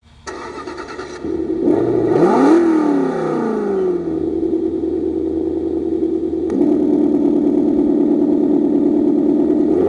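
Simulated Ford 5.0 Mustang GT V8 from an ESS ONE+ engine sound unit in an RC car: a start-up sequence that catches about a second in, one throttle blip whose pitch rises and falls back, then a steady idle that grows fuller about six and a half seconds in.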